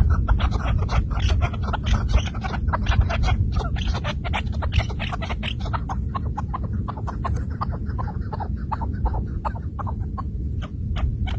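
Chukar partridge calling: a long, rapid run of short chuk notes, several a second, over a low steady rumble.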